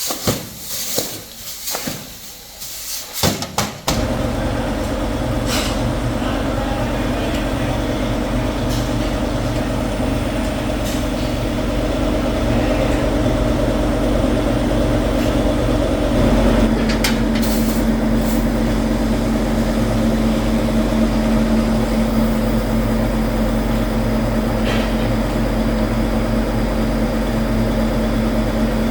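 Irregular clattering knocks for about four seconds, then heavy factory machinery running with a steady drone and hum; about sixteen seconds in, one tone in the drone steps up and grows louder.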